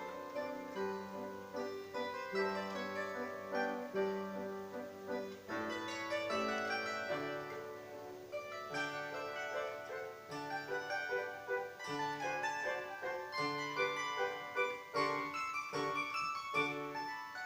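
Bandura played solo: a plucked melody of several notes a second over low bass notes, the bass struck on a steady pulse in the second half.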